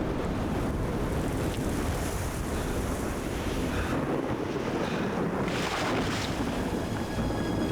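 Tornado storm wind, a steady loud rushing noise, with a brief stronger gust about five and a half seconds in.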